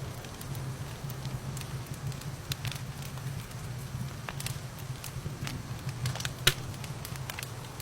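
Wood fire in a fireplace crackling, with irregular sharp pops over a steady hiss and low rumble; one pop about six and a half seconds in is louder than the rest.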